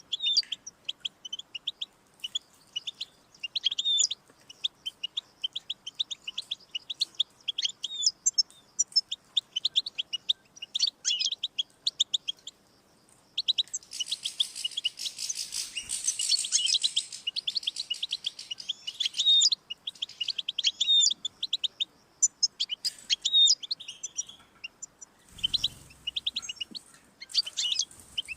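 European goldfinch singing: fast, liquid twittering phrases of quick high notes, with a brief pause about 13 seconds in followed by a denser, louder burst of song. A short low thump sounds near the end.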